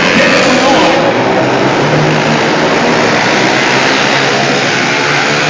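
Several pit bike engines running hard as the bikes race, their pitches shifting and overlapping.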